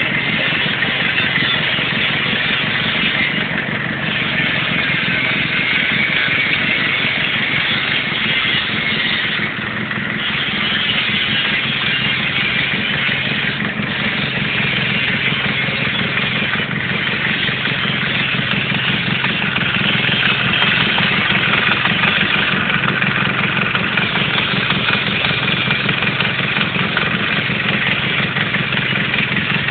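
Austin Mini's BMC A-series four-cylinder engine, mounted on an engine stand, running steadily at a constant speed.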